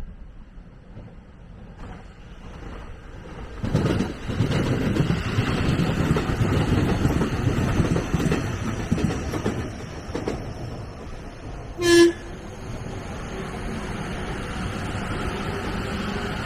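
A train running past on the line: its rolling noise swells suddenly about four seconds in and stays loud for several seconds. About twelve seconds in comes a single short horn blast, the loudest sound, with steady running noise after it.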